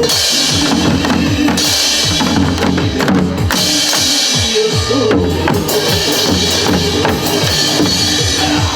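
Several janggu, Korean hourglass drums, struck together in quick rhythmic strokes over a recorded trot-song backing track with a steady beat.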